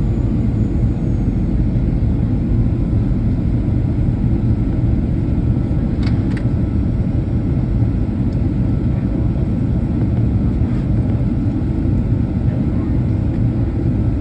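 Boeing 737 cabin noise in flight: a steady, loud, low rumble of the jet engines and airflow, with a couple of faint clicks about six seconds in.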